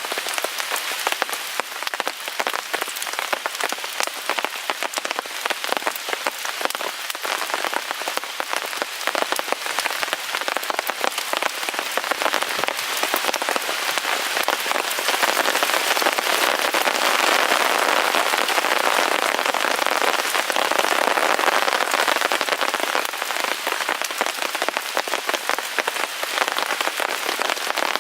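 Steady rain pattering on a tarp overhead, a dense hiss of countless small drop-hits that grows heavier for several seconds about halfway through, then eases a little.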